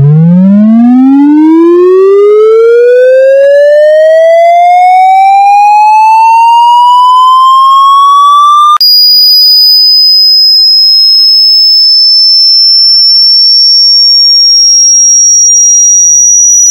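Very loud synthesized test tone sweeping steadily upward from a deep hum to a shrill whistle-like pitch, then about nine seconds in jumping abruptly to a piercing high steady tone that creeps slightly higher. It is an 'annoying sound' endurance clip, meant to make listeners cover their ears.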